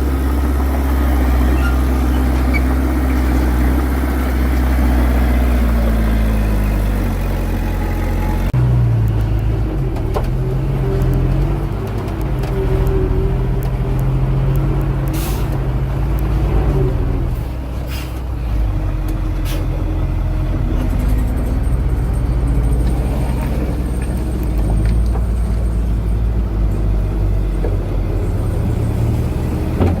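Heavy diesel engines of earthmoving machinery running under load, their pitch rising and falling as the machines work. The engine note changes abruptly about a third of the way in.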